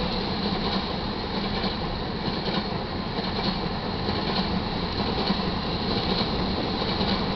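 Railroad tank cars of a freight train rolling past close by: a steady rumble of steel wheels running on the rails.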